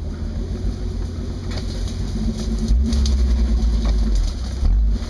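Jeep engine running low and steady, getting louder about three seconds in and again briefly near the end.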